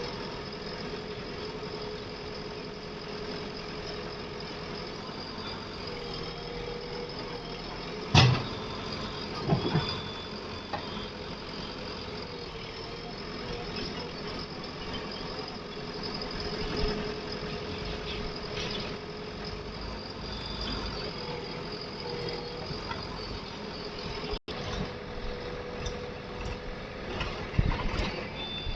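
Diesel engine of heavy earthmoving or farm machinery running steadily at idle, with one sharp loud knock about eight seconds in, a smaller thud soon after, and a few more knocks near the end.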